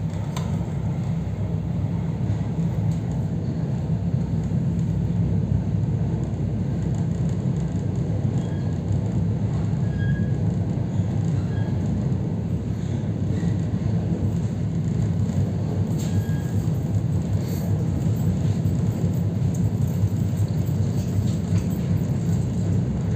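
Steady low rumble of an EP3D electric multiple unit running along the track, heard from inside the passenger car.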